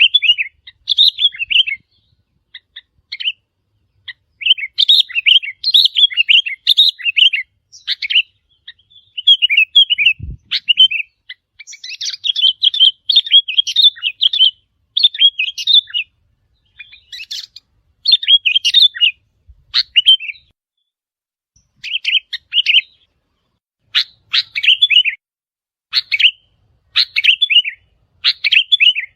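Sooty-headed bulbul song: short, quick, bubbly chirping phrases repeated again and again with brief pauses between them. There is a single low thump about ten seconds in.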